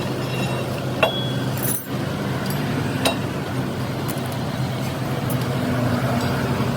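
A steady low machine hum runs throughout, with a couple of sharp metallic clicks, one about a second in and one about three seconds in.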